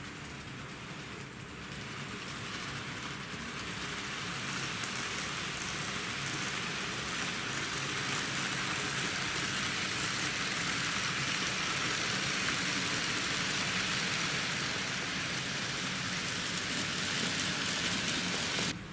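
Steady hissing running noise of a train, growing louder over about twelve seconds and then cutting off abruptly near the end.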